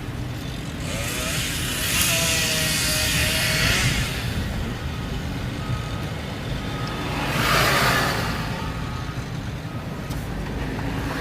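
Road noise of a moving car: a steady low rumble of tyres and engine, with two louder rushing swells that build and fade, about a second in and again around seven seconds.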